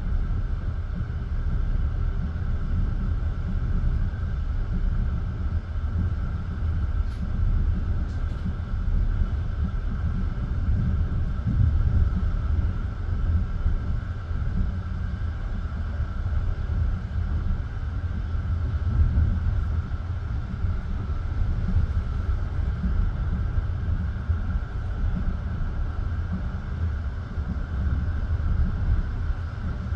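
Passenger train in motion, heard from inside the carriage: a steady low rumble of wheels on rails, with a faint steady hum higher up and a couple of faint clicks about seven and eight seconds in.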